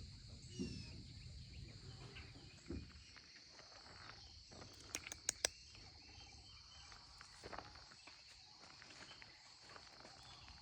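A steady high-pitched drone of insects calling, with a few soft footsteps in the first seconds and a quick run of three or four sharp clicks about halfway through.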